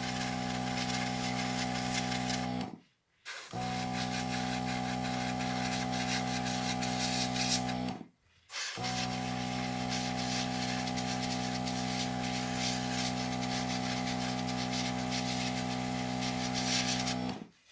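Airbrush compressor running with a steady hum, and the hiss of air and thin paint spraying from the airbrush. The sound cuts out abruptly to silence twice for about half a second.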